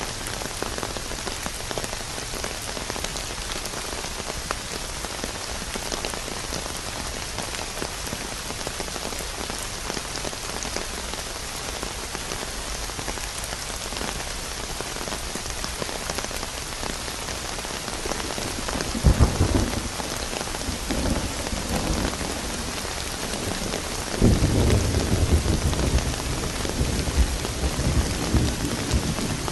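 Steady heavy rain falling, with deep rolls of thunder rumbling in about two-thirds of the way through and again near the end.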